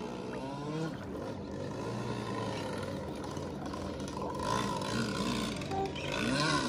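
A boat engine running steadily on the water, with its pitch rising and falling at times, and faint voices.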